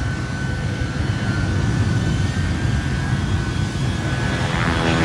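Aircraft engine noise: a loud, steady low rumble. About four and a half seconds in, a pitched engine drone with many overtones comes in on top of it.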